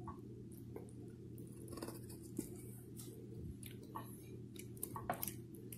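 A toddler biting and chewing corn on the cob: faint, scattered wet mouth clicks and smacks over a steady low hum.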